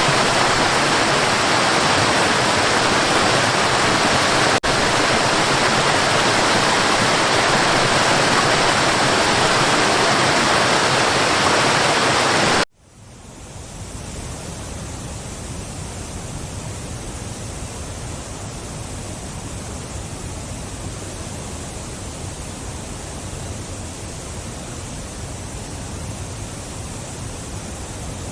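Waterfall pouring: a loud, steady rush of falling water, with a tiny blip a few seconds in. About twelve seconds in it cuts off abruptly and a different, quieter and deeper-sounding waterfall fades in and runs steadily.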